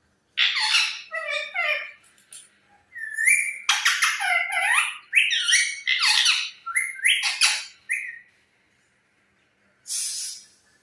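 Pet parrot calling in a run of quick chattering whistles and squawks that glide up and down in pitch, in several bursts with short gaps, ending in a brief harsh screech.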